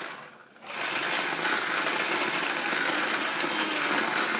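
Vacuum cleaner motor whirring; it drops away at the start, then comes back on under a second in and runs steadily.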